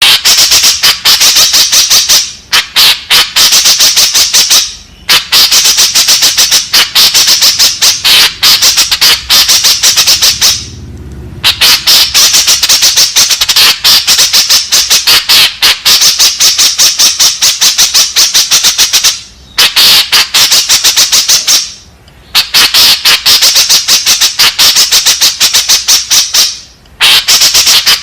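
White-breasted woodswallow (kekep babi) calling: rapid sharp calls repeated many times a second in long runs, broken by short pauses every few seconds.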